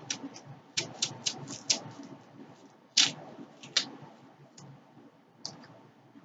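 Close-up eating sounds of spaghetti with cheese: wet chewing and irregular lip-smacking clicks, loudest about three seconds in.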